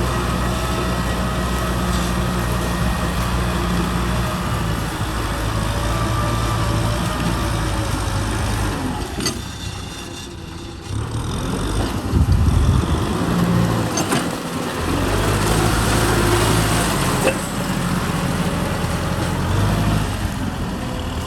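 Kubota M6040 tractor's diesel engine running under load while plowing. It drops back briefly about ten seconds in, then picks up louder again.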